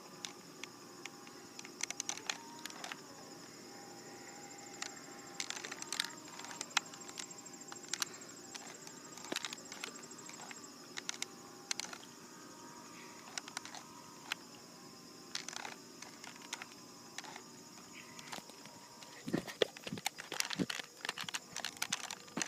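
Crickets chirring steadily outdoors, with irregular sharp clicks scattered throughout that come thicker near the end, and faint steady hums underneath.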